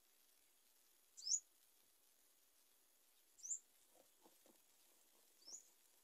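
A bird chirping three times, about two seconds apart: each chirp a short, high note sweeping upward. A few faint soft ticks fall around the fourth and fifth seconds.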